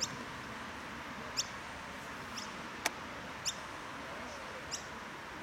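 A bird calling: five short, sharp chirps that drop quickly in pitch, about a second apart, over a steady outdoor hiss. A single sharp click sounds a little before the middle.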